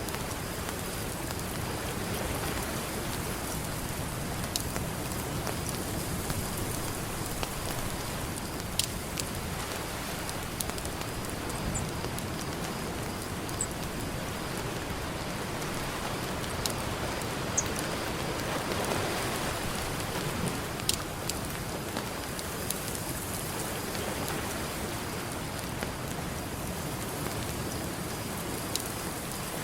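Campfire crackling with a few sharp pops, over a steady wash of ocean surf that swells briefly about two-thirds of the way through.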